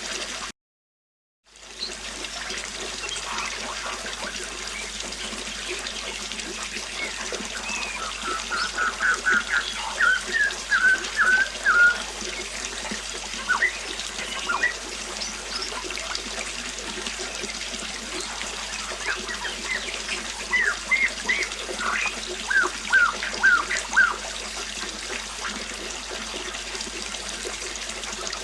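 River water flowing steadily, with a songbird singing two runs of short, quick repeated notes partway through and again later. The sound cuts out completely for about a second near the start.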